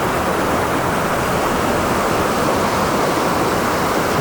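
Fast-flowing mountain stream rushing, a steady, even noise of water.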